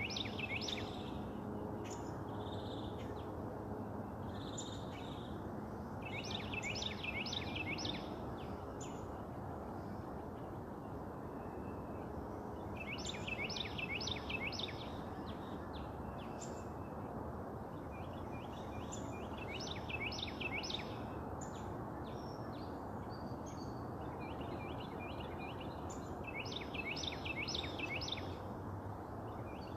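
A songbird singing the same short phrase of quick downslurred notes, about once every six to seven seconds, over a steady low background rumble.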